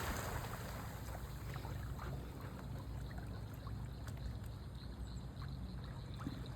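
Faint water sounds from a dog swimming out after a thrown toy, over a low steady rumble.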